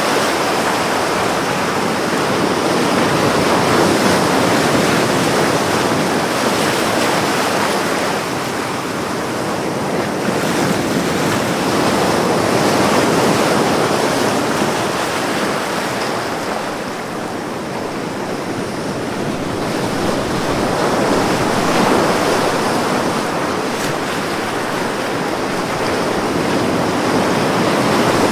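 Ocean waves breaking on a shore, the surf swelling and easing slowly every eight to ten seconds.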